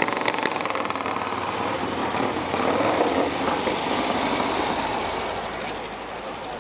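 1950 Vincent Black Lightning's 998 cc V-twin running with its open exhaust. It grows louder to a peak about three seconds in, then fades away toward the end.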